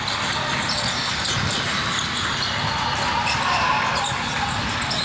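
Basketball game sounds in a gym: a basketball bouncing on the hardwood court in a scatter of short impacts, over indistinct voices of players and spectators.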